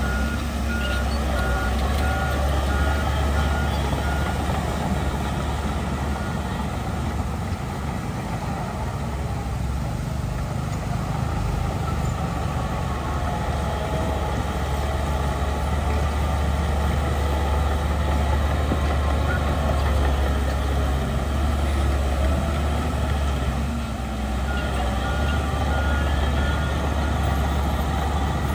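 Heavy diesel earthmoving machinery running steadily, with a reversing alarm beeping for the first few seconds and again a few seconds before the end.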